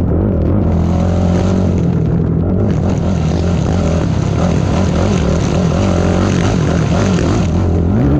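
ATV engine running hard, its pitch rising and falling with the throttle.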